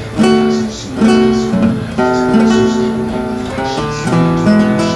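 Acoustic guitar being strummed, chords struck and left to ring, a new chord roughly every second.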